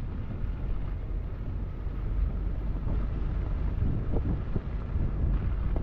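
A car driving on snowy roads: a steady low rumble of engine and road noise, with wind buffeting the microphone.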